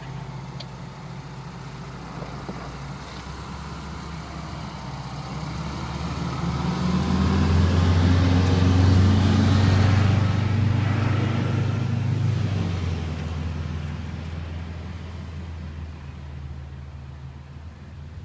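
Fire engine driving past: a low engine hum that builds, is loudest about halfway through, then fades as it moves away, with no siren sounding.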